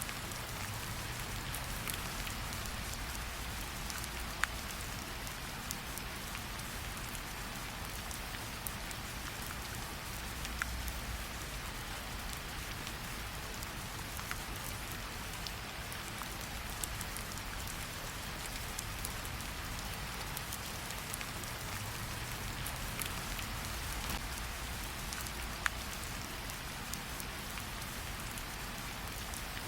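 Steady rain falling, with a few sharp crackles from a campfire scattered through it.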